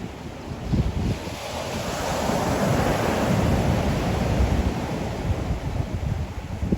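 Ocean surf: a wave swells about a second in and washes loudly through the middle before easing near the end, with wind buffeting the microphone as a low rumble.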